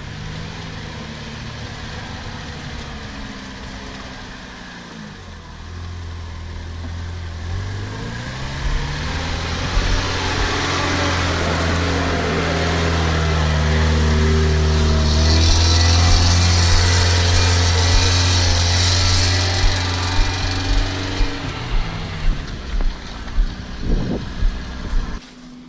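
Off-road 4x4's engine working hard under load, its revs climbing after about five seconds and held high, with a loud hiss of spinning tyres. Near the end comes a run of regular knocks, about two a second.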